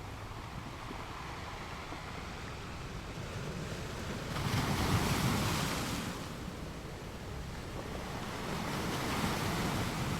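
Ocean waves washing onto the shore: a steady surf hiss, with one wave breaking louder about four seconds in for a couple of seconds and a weaker one near the end.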